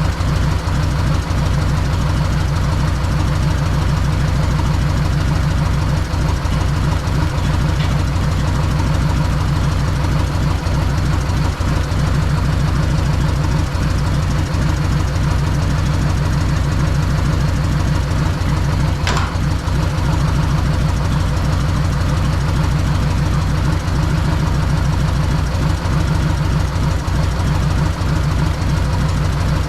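Freshly rebuilt Harley-Davidson Evolution V-twin engine idling steadily with an even, low-pitched pulsing beat.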